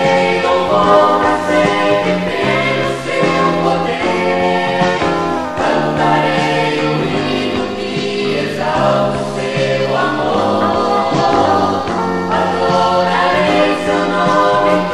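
Brazilian gospel group singing in choir-style harmony with instrumental backing.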